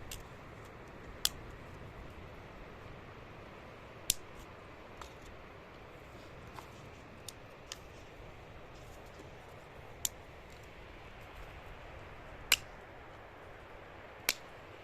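A handful of sharp, separate clicks or snaps, about five loud ones a few seconds apart and some fainter ones, over faint steady background noise.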